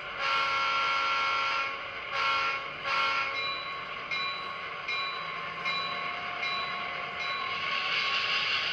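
Model locomotive's DCC sound decoder sounding a chime horn: one long blast and two short ones, then a bell ringing at a steady pace over the running locomotive sound.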